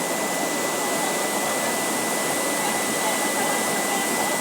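Swollen floodwater rushing steadily, an even unbroken noise.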